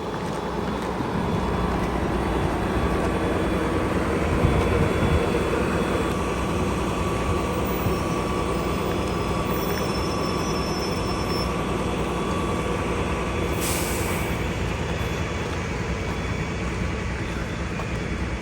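Steady rumble of a vehicle in motion.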